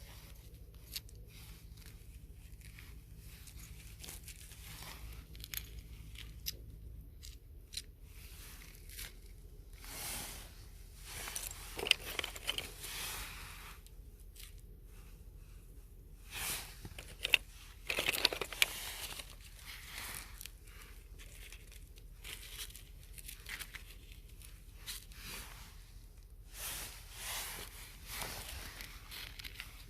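Irregular close-up tearing and crinkling sounds with scattered sharp clicks, with a few louder bursts partway through.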